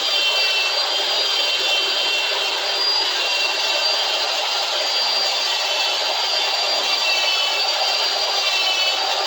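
Power tool running steadily with a high whine that wavers slightly, stripping old tape and grime off a metal bar clamp.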